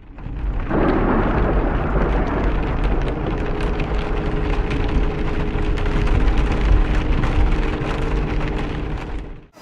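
Storm with heavy rain pelting down: a dense hiss full of sharp ticks of drops striking, over a strong, steady low rumble.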